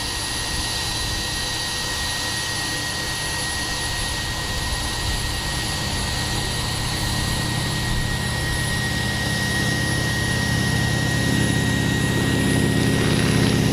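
A turbine auxiliary power unit keeps up a steady high whine while a Boeing Stearman biplane's radial engine and propeller come up underneath it, growing steadily louder through the second half.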